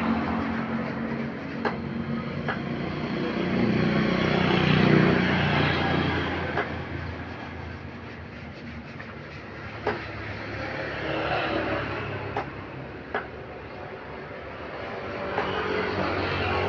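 Road traffic going past: vehicle engines and tyre noise that swell as vehicles go by, about three times, with a few sharp clicks.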